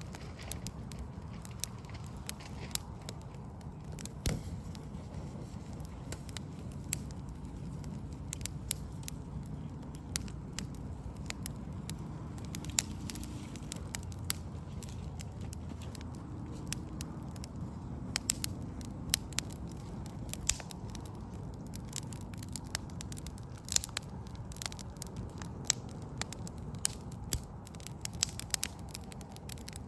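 Backyard wood fire of burning logs crackling, with irregular sharp pops that come thicker in the second half, over a steady low rumble.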